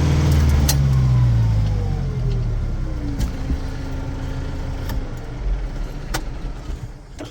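Case 844 XL Plus tractor's diesel engine heard from inside the cab, its pitch falling as it slows over about two seconds, then running on lower and quieter. A few sharp clicks come through it.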